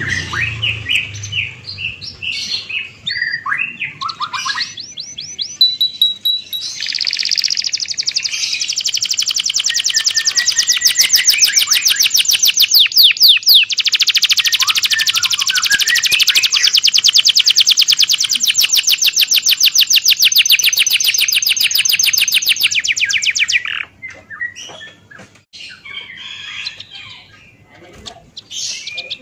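Birds calling with varied high chirps, then a long rapid trill of evenly repeated downward-sweeping notes that lasts about sixteen seconds and stops abruptly, followed by scattered fainter chirps.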